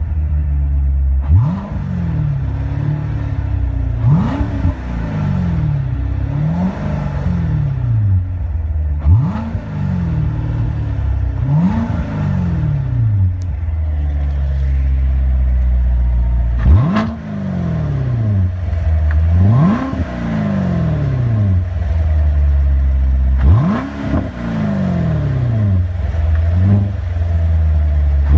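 2016 Chevrolet Corvette Stingray's 6.2-litre V8 with performance exhaust, idling and blipped repeatedly: about nine quick revs, each rising sharply and sliding back down to idle.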